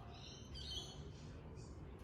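Faint birds chirping, a few short high calls, over a low steady background rumble.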